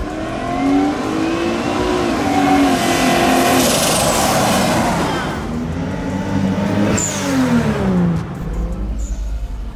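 Twin-turbo V8 of a 1970 Chevelle SS accelerating past, its pitch climbing steadily for about five seconds, with a high whistle falling in pitch partway through. About six seconds in the engine rises and falls in pitch again.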